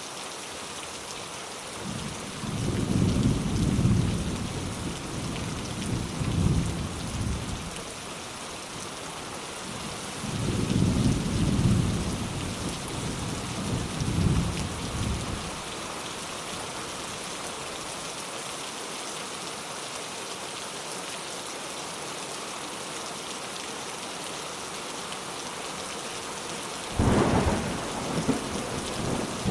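Steady rain with thunder: two long low rolls of thunder in the first half, then a sudden louder clap near the end.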